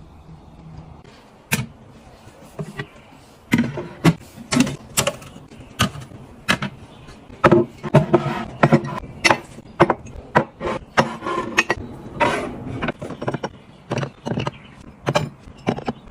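Containers and food items being handled and set down while a refrigerator is restocked: a string of irregular sharp clicks, taps and knocks, some ringing briefly.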